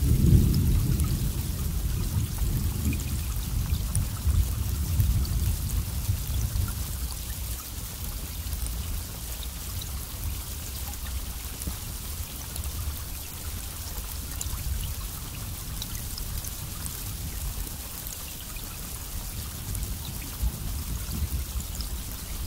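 Steady rain with scattered drops pattering close by. A low roll of thunder rumbles at the start and fades away over the first several seconds.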